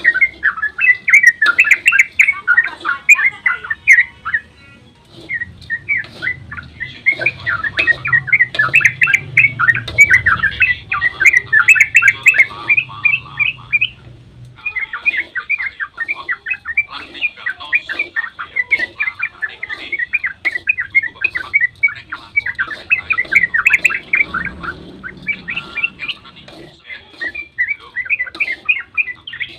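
Yellow-vented bulbul (trucukan) singing a long, fast run of chattering notes, the rapid 'ropel' song, with a pause about five seconds in and a short break near the middle.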